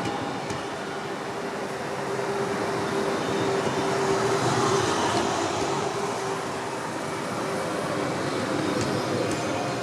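A train running on the track close by, with a steady rumble of wheels and rail that swells a little about halfway through, and a faint steady tone running under it.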